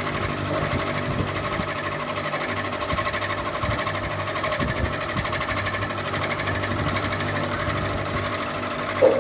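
Ceiling fan running steadily, with a low hum under a fast, even rattling flutter. There is a short knock right at the end.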